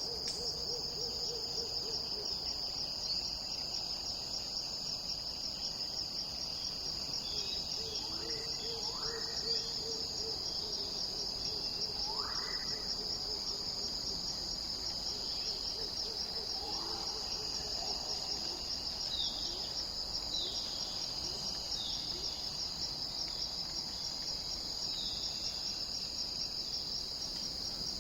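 A steady high-pitched insect chorus, with a few faint rising whistled calls and short falling notes from birds scattered through it.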